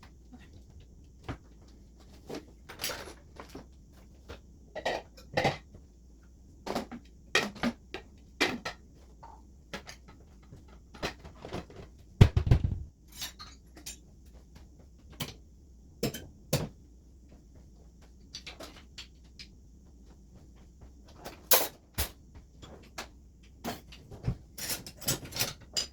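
Dishes and cutlery clattering as they are handled: a long run of scattered sharp knocks and clinks, with one heavier thud about halfway through.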